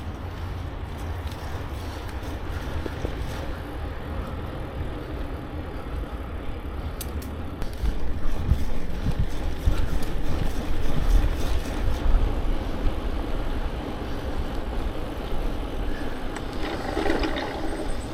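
Wind buffeting the microphone over the tyre and road noise of a bicycle riding along. The rumble gets louder and gustier about eight seconds in.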